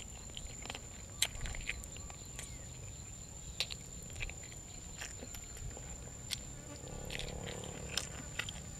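Close-miked eating: scattered crunches and wet clicks of chewing noodles and fresh raw vegetables, over a steady high-pitched whine.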